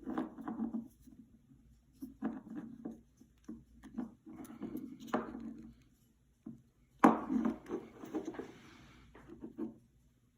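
Irregular handling noises: clicks, knocks and rubbing of objects being moved about, with the sharpest knock about seven seconds in.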